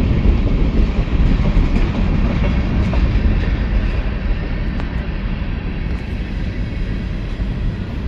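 Kansas City Southern train rolling past at close range: a steady, loud rumble of railcar wheels on the rails, with occasional faint clicks.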